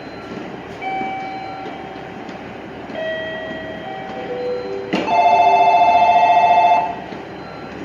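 Electronic platform bell ringing with a fast trill for about two seconds, starting about five seconds in. Before it come a few soft, separate chime tones, each lower than the last, over steady rail-station background noise.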